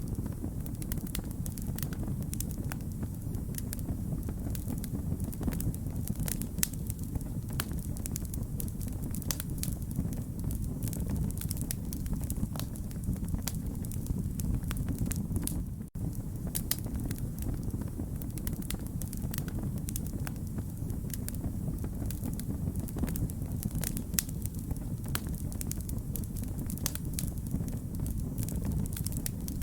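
Wood fire crackling: a steady low rumble of burning with many sharp snaps and pops scattered throughout. The sound drops out for a split second about halfway through.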